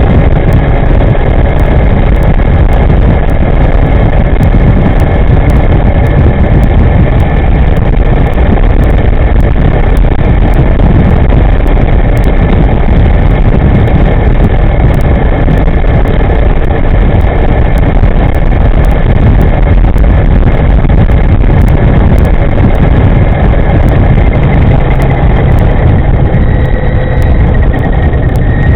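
Wind rushing over the microphone of a moving electric scooter, loud and steady, with a faint steady high whine from its electric drive.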